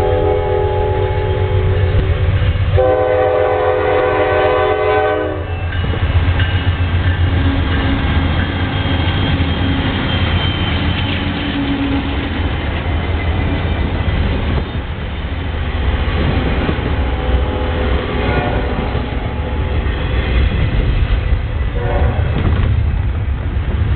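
Norfolk Southern freight train sounding its locomotive air horn in two long blasts at the start, as for a grade crossing. The locomotive and freight cars then rumble past with wheel clatter on the rails. The horn chord sounds again briefly near the end.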